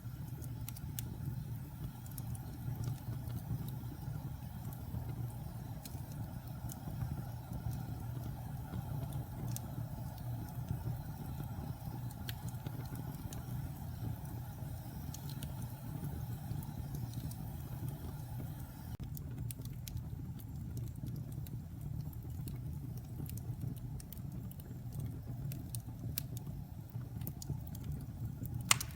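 Wood fire burning in a fireplace: a steady low rumble with scattered small crackles, and one sharper, louder pop near the end.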